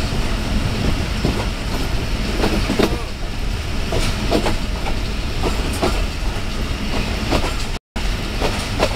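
Passenger train running at speed, heard from aboard: a steady heavy rumble with irregular clicks and clacks of the wheels over the rail joints. The sound cuts out for an instant near the end.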